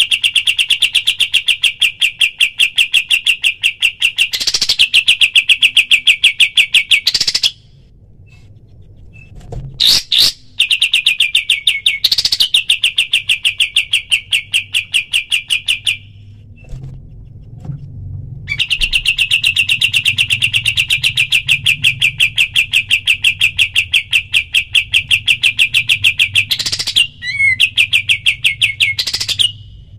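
Kapas tembak bulbul singing its rapid-fire 'tembakan' song: long runs of fast, evenly repeated sharp high notes, several seconds each, broken by short pauses and a brief louder call.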